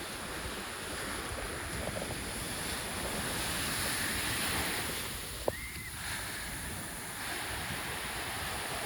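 Steady rush of surf and wind on the microphone, with a single sharp click a little past the middle.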